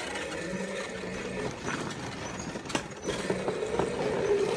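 Quad bike motor running steadily as it is ridden, with a steady hum that grows louder toward the end. A single sharp click comes just under three seconds in.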